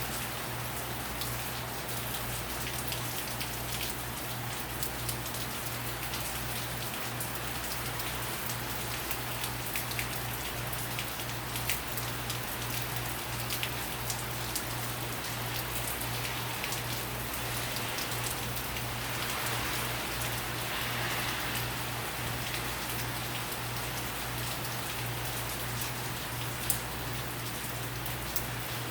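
Hurricane rain falling steadily, with scattered close drops ticking through the steady hiss.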